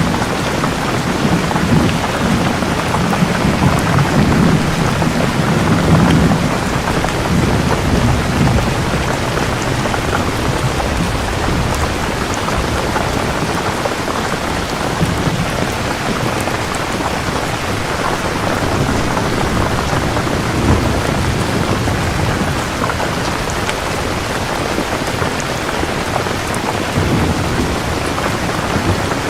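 Steady rain falling, with low rolling thunder that rumbles through the first several seconds and swells faintly twice more later.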